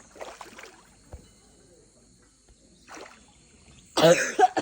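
Quiet pool-side stillness, then near the end a sudden loud splash of water with a shrieking voice in it.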